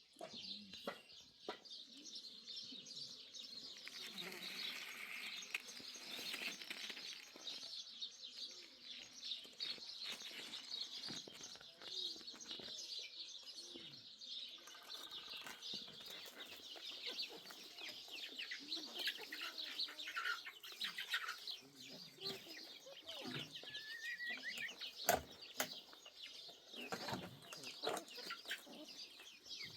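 Chickens clucking amid a steady chatter of small birds chirping, with a few sharp knocks, the loudest near the end.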